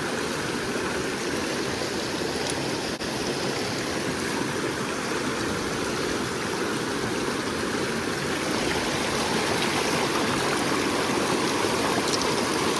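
River current rushing steadily, a constant even wash of flowing water that grows a little louder in the second half.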